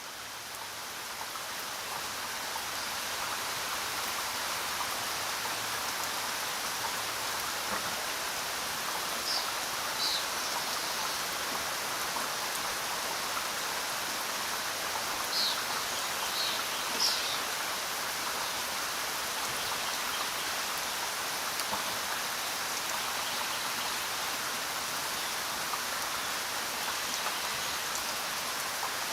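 Steady rainfall, fading in over the first few seconds and then holding even. A few brief high chirps come through in the middle.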